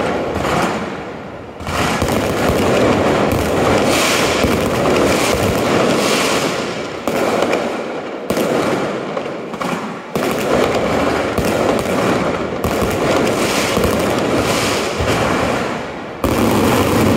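Fireworks display at close range, with ground fountains and shells firing. It makes a dense, continuous crackle and rush that jumps suddenly louder several times.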